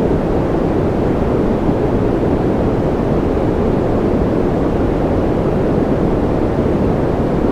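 Continuous generated noise of the kind sold as white noise for sleep. It is a steady, even rush with no change or rhythm, deep and muffled rather than hissy.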